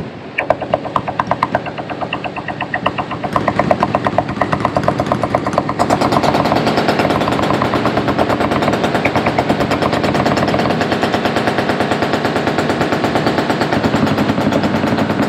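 Several machine guns firing long, overlapping automatic bursts. The fire grows heavier about a third of the way in and becomes an unbroken rattle of shots.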